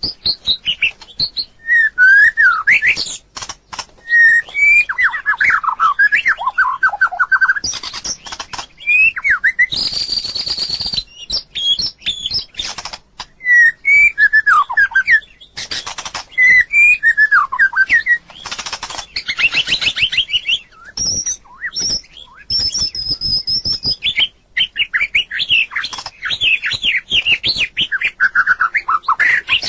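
White-rumped shama singing: a varied run of rich whistled phrases that slide up and down in pitch, broken by short clicks and harsh rasping notes.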